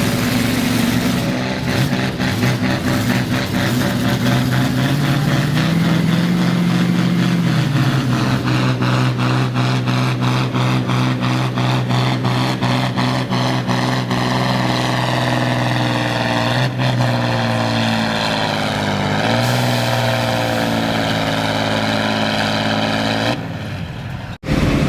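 Naturally aspirated pulling tractor's engine running hard under load during a pull. Its pitch rises about six seconds in, holds high and steady, then eases down near the end.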